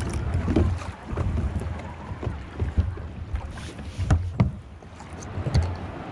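Wind buffeting the microphone, with irregular knocks and thumps from the plastic kayak and its gear.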